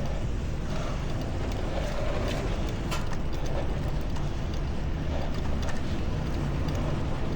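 Steady low rumble of wind and street traffic picked up by a camera microphone on a moving bicycle, with a few faint scattered clicks.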